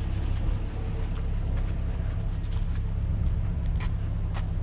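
A vehicle engine idling with a steady low rumble, with a few faint ticks over it.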